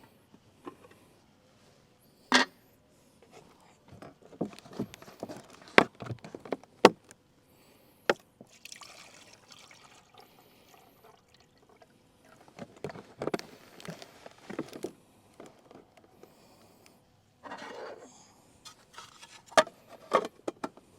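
Knocks, clicks and rustling of coffee-making gear being handled, with a few short stretches of hiss or pouring-like noise in between. Loudest are single sharp knocks about two, six, seven and twenty seconds in.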